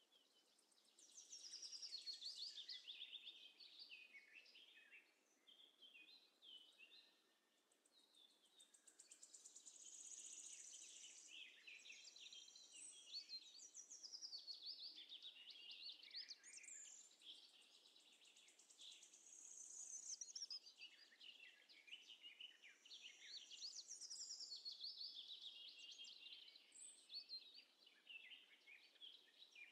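Faint songbirds chirping and singing, many quick high notes and trills overlapping almost without a break, with a short lull about a quarter of the way through.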